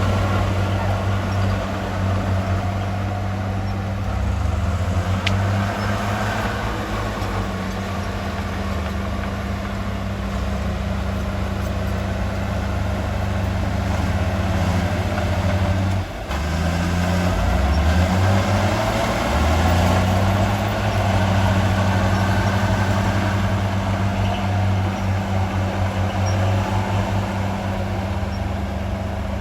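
Heavy diesel engine running steadily, with a brief dip and shift in pitch about halfway through.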